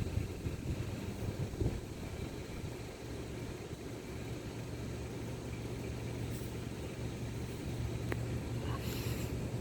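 Airbus A320-216's CFM56 turbofan engines heard as a steady low rumble while the airliner lands.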